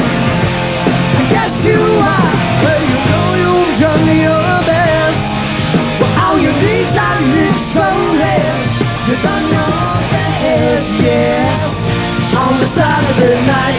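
Rock band playing live, with drums and bass under a lead line of wavering, sliding notes.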